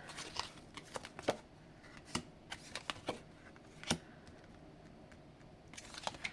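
Tarot cards being handled and shuffled: a scattering of soft, irregular clicks and flicks of card stock, with a few sharper snaps.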